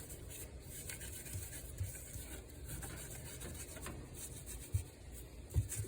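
Gloved hand rubbing mineral oil into a wooden charcuterie board: a faint, steady scrubbing, with a couple of light bumps near the end.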